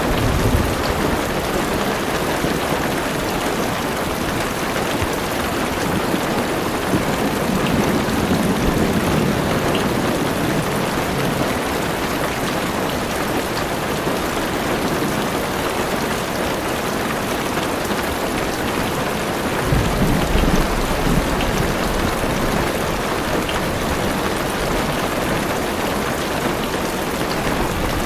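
Heavy rain drumming steadily on a car's roof and windows, a dense even hiss. Low rumbles of thunder swell up twice, about a third and about two-thirds of the way through.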